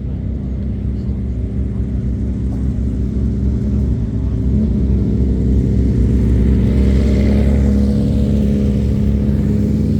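Motorcycle engines running close by, steady, growing louder about halfway through.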